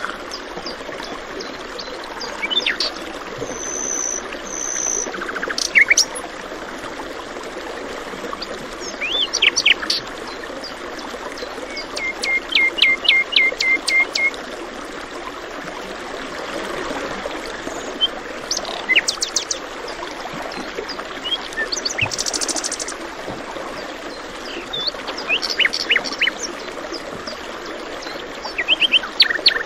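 Several birds calling and singing over the steady rush of flowing water, with short chirps throughout and a quick run of repeated notes about midway.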